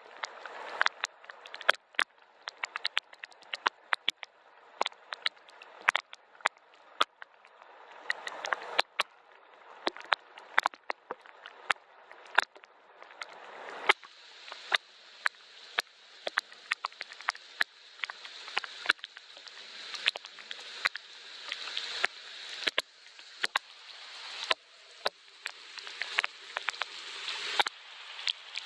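Gentle rain: many separate drops ticking sharply over a soft hiss of rainfall. The hiss grows fuller about halfway through and eases just before the end.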